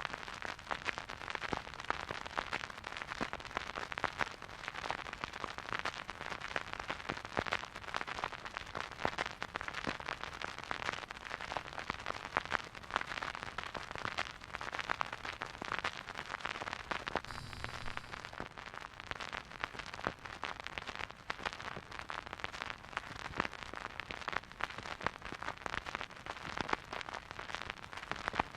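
Vinyl record surface noise from a silent groove playing on a record player: dense, irregular crackles and pops over a steady hiss.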